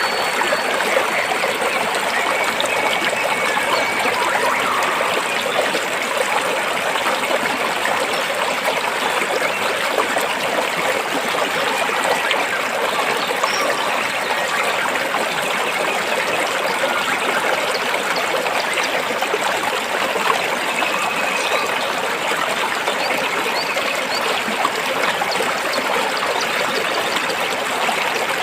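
Stream water flowing and trickling between rocks, a steady babbling rush with no pauses.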